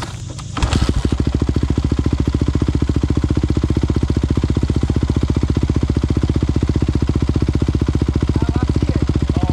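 Single-cylinder dirt bike engine running at a steady idle, close by and loud. It comes in abruptly under a second in and keeps an even, rapid beat.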